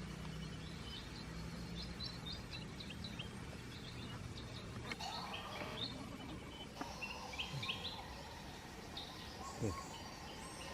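Small birds or creatures chirping in the background: short, high chirps repeating irregularly, over a low steady hum for the first half.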